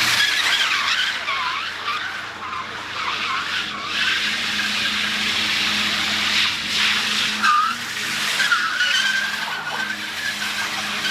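Car tyres squealing continuously as cars drift, the squeal wavering up and down in pitch, with a faint steady low drone underneath.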